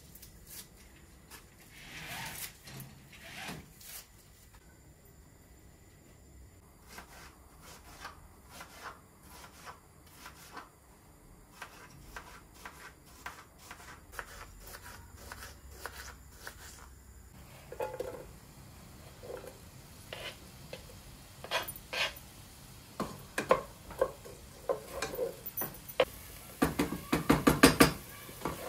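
Kitchen work sounds: dishes and metal utensils clinking and knocking at irregular intervals, busier in the second half, with a quick run of rapid strikes near the end.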